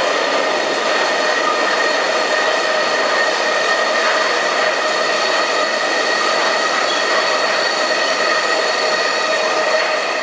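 Freight train of steel-coil wagons passing close by: steady noise of wheels running on the rails, with several steady whining tones over it.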